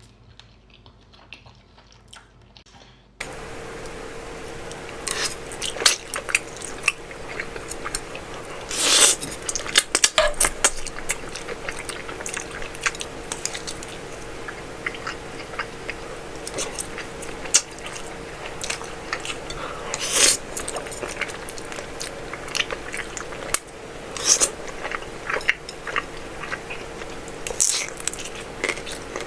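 Close-miked mukbang eating of Buldak instant noodles: chewing and bites in irregular clicks and smacks, with several louder sharper mouth sounds. About three seconds in the level jumps and a steady hum comes in under the eating.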